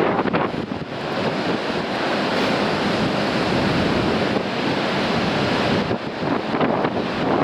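Heavy ocean surf breaking and washing over coastal rocks, with strong wind buffeting the microphone; a steady, dense rush of noise that swells and eases a little.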